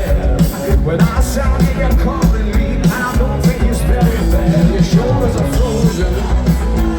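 Live rock band playing loudly: drums, bass and electric guitar, with singing.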